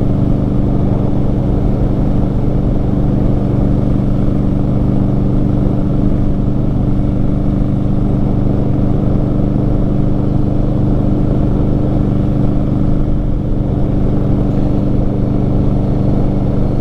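2018 Indian Scout Bobber's V-twin running through Vance & Hines slash-cut mufflers while riding, holding a steady engine speed with an even, unchanging exhaust note.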